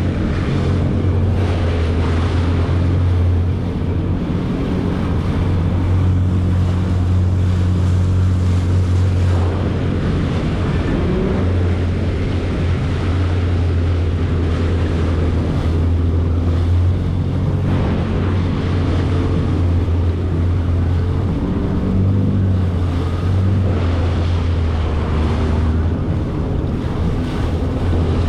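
Jet ski engine running with a steady low hum, over rushing water and wind noise on the microphone.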